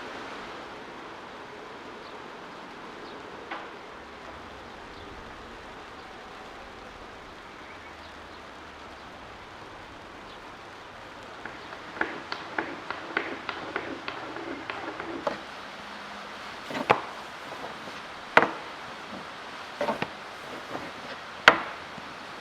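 A steady hiss, then from about halfway a run of irregular clicks and knocks, with three louder, sharper knocks near the end.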